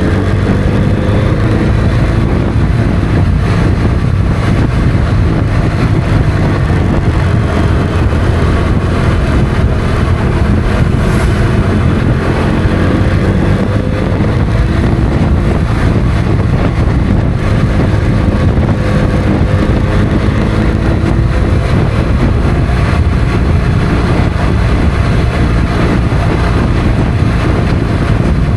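Motorcycle engine running under way, its pitch rising and falling gently with throttle and speed, with wind rushing over the microphone.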